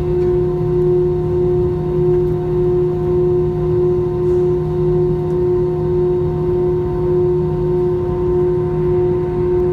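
Airbus A320 jet engines heard from inside the cabin as it sets off for takeoff: a steady drone made of several fixed hum tones over a low rumble, with no change in pitch.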